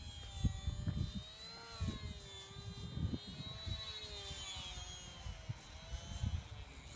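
Radio-controlled model airplane's motor and propeller whining overhead, its pitch slowly wavering up and down as the plane flies and changes throttle, with wind gusts buffeting the microphone.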